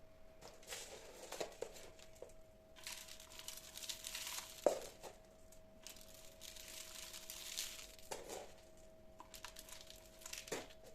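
Irregular crinkling and rustling of dry or plastic material being handled, with scattered small clicks, one sharper click about halfway, and a faint steady hum underneath.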